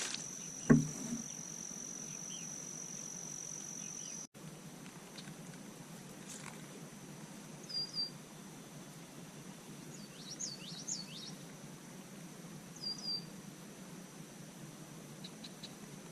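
Outdoor ambience with birds chirping: several short chirps and a quick run of calls in the second half. A steady high-pitched whine runs through the first four seconds and stops abruptly, and a single low thump comes about a second in.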